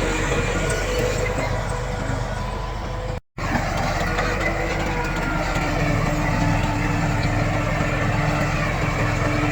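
Heavy earthmoving machine's diesel engine running steadily, with a brief drop to silence a little past three seconds in.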